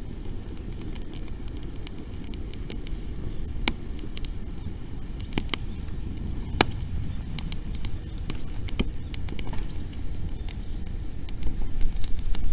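Wood campfire crackling, with scattered sharp pops that come thicker near the end, over a steady low rumble. The burning wood is dry.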